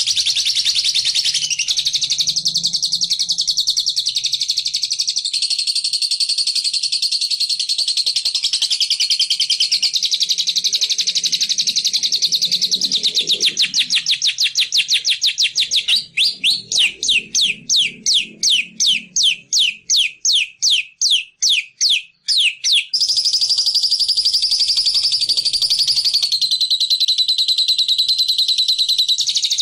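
A small songbird's high-pitched, fast chattering trill that runs without pause. About halfway through it breaks into a string of separate sweeping notes, about three a second, then the fast trill resumes.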